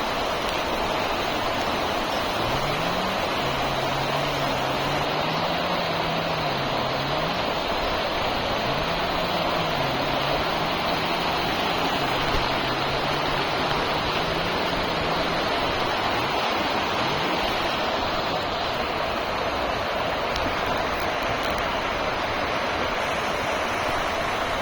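A flooded stream rushing in a steady, dense wash of water. A faint low wavering hum runs through the first half and fades out around two-thirds of the way in.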